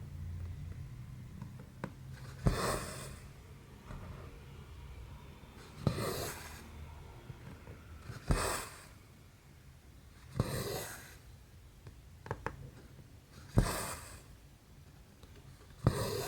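Needle and embroidery thread being worked through 11-count cross-stitch canvas: six strokes about every two to three seconds, each a sharp tick as the needle goes through, then a short hissing swish as the thread is drawn through the fabric.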